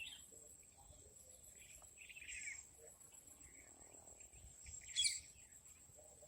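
Birds calling: a short chirp about two seconds in and a louder call about five seconds in, over a faint steady high-pitched tone.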